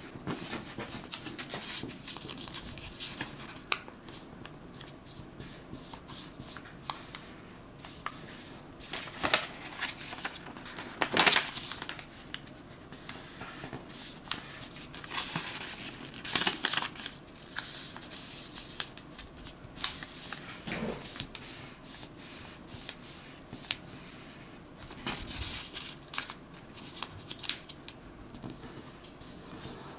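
Origami paper being handled, folded and creased by hand: irregular rustles and sharp crinkling strokes, the loudest about a third of the way in.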